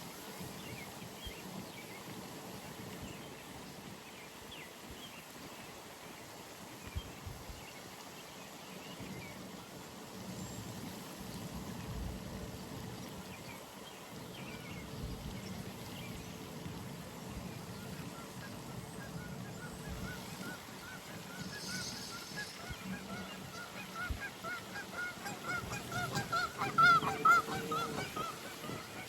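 Geese honking at a pond: a fast run of repeated honks starts faintly about two-thirds of the way in, grows louder and is loudest just before the end. Before that, only a quiet outdoor background with faint small-bird chirps.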